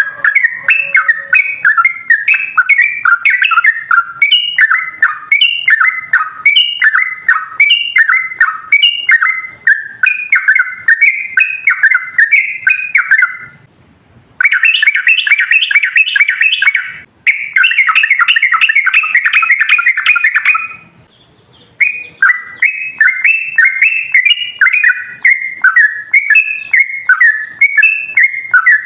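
Yellow-vented bulbul (trucukan) singing a long run of quick, bubbly chattering notes. Two denser, faster trills come in the middle with brief pauses between phrases.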